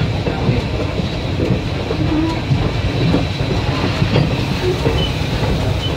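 Passenger train rolling along the track, heard from aboard the coach: a steady rumble of the wheels on the rails.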